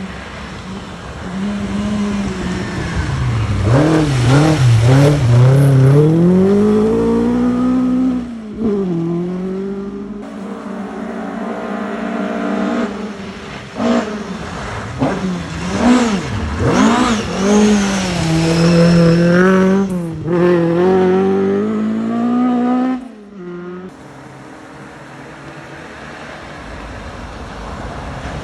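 Rally car engines revving hard and dropping back through gear changes as the cars approach and pass, with sudden breaks where one car's run gives way to the next.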